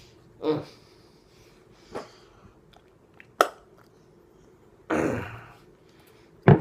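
Scattered mouth and breath sounds from a man: short throat or breath noises, a sharp click a few seconds in and another near the end, and a longer breathy exhale or sniff about five seconds in.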